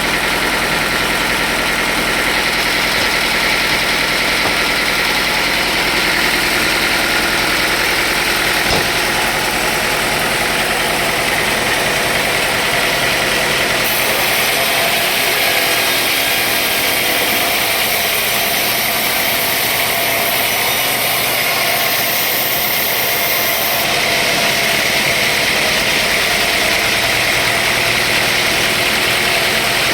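Sawmill machinery running steadily: a continuous mechanical drone with a hiss on top that grows brighter for about ten seconds in the middle.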